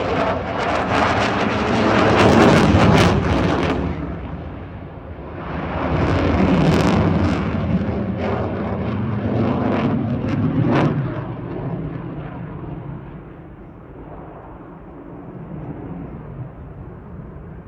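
F-16 fighter's jet engine during a display pass, a loud crackling rush of noise. It swells in the first few seconds, dips briefly, swells again for several seconds, then fades away as the jet moves off.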